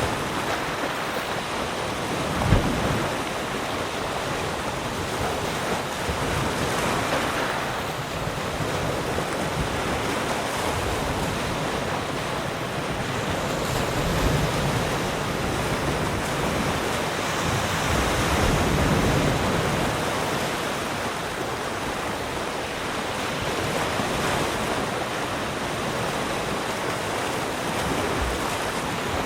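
Ocean surf: an even rush of waves breaking and washing in, swelling and easing every several seconds. A short knock sounds about two and a half seconds in.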